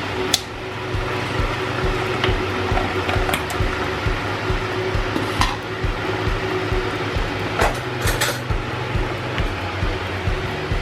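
Dishes and cutlery clinking a few times as noodles are served, over a steady low hum.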